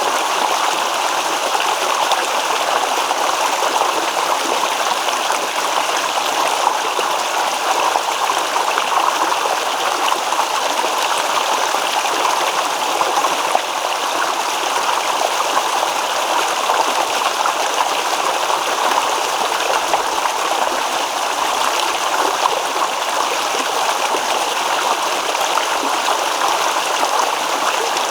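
A shallow stream babbling and trickling over stones: steady running water with a fine, bubbling texture.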